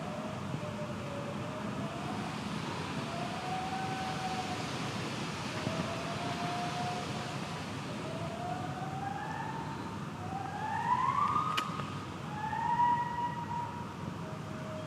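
Chimpanzee pant-hoot: a run of rising hoots, each about a second long, that climb steadily higher and louder to a climax near the end, with a single sharp knock at the peak.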